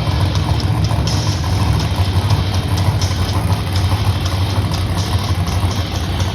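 Monster truck engine running steadily at low revs, a deep rumble without revving.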